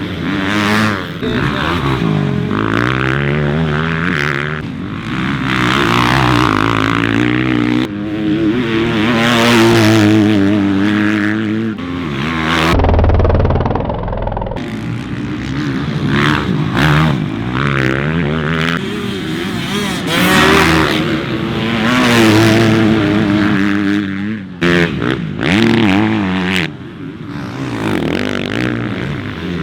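Motocross bike engines racing, revving up and falling off again and again through the gears as the bikes pass. The sound changes abruptly at several points, and about a third of the way through there is a couple of seconds of low rumble.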